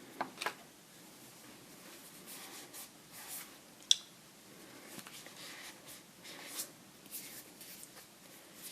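Close-miked handling of small objects: soft rustling and scraping with scattered light clicks, and one sharp click about four seconds in.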